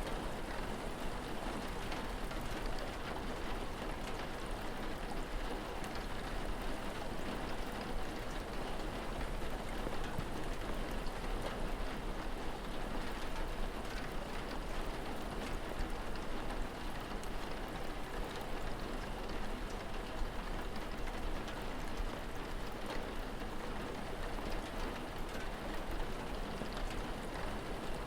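Steady rain: an even hiss with scattered drops ticking, unchanging throughout.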